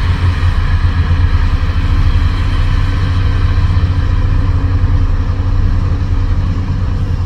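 Heavy diesel engine running steadily at a low, even speed, with a deep low-pitched drone.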